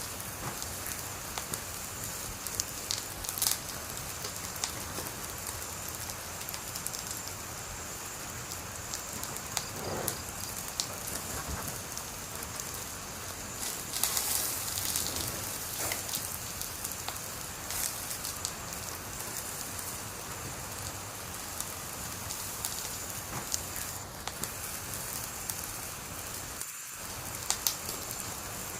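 Wood fire burning: a steady hiss with scattered sharp crackles and pops, and a denser burst of crackling about halfway through.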